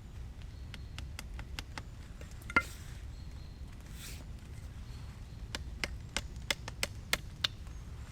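Sharp wooden knocks and taps from sticks being hand-worked for a homemade bow saw frame. They come irregularly, with one louder knock that rings briefly about two and a half seconds in and a quicker run of knocks, about three a second, near the end.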